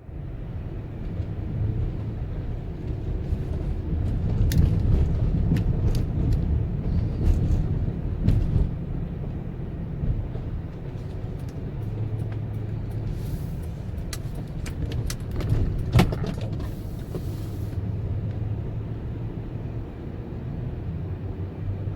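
Car being driven: steady low road and engine rumble, with scattered sharp clicks and knocks, the loudest about two-thirds of the way through.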